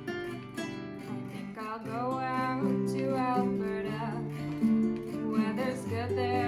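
Strummed acoustic guitar playing a slow folk-song accompaniment, with a singing voice coming in about two seconds in.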